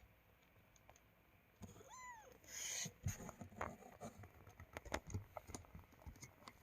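A kitten gives one short meow about two seconds in, its pitch rising then falling. Soft rustling and light knocks from its movement follow.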